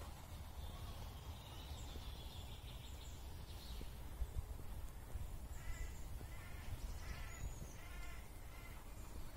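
Forest ambience with a steady low rumble and faint high bird chirps. From about halfway, a bird gives a run of short, harsh calls, several in a row.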